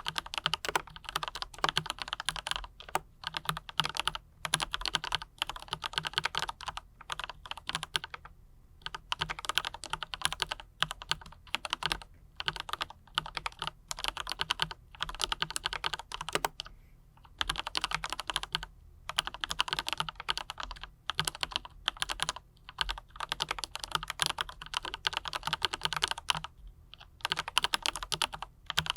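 Typing on a mechanical keyboard with Autumn Rain switches and PBT double-shot keycaps, a Monstargear NINJA87 PRO: quick runs of key clacks broken by brief pauses.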